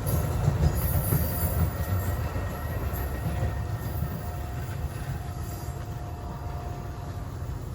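A train rolling past, a heavy low rumble that slowly fades as it moves away, with faint high wheel squeals in the first few seconds.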